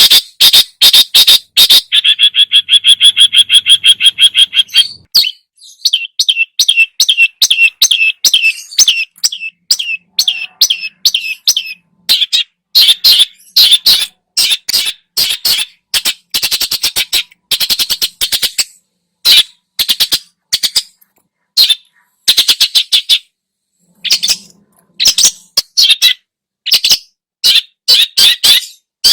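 Long-tailed shrike (cendet) singing loud and non-stop, its song packed with mimicked phrases: a fast chattering run of rapid notes a couple of seconds in, then strings of short, sharp, high notes and brief phrases.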